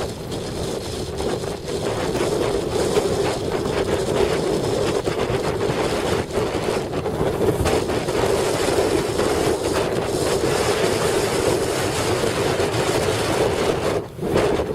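Heavy wind buffeting the microphone over rushing water, with a steady hum underneath; it dips briefly near the end.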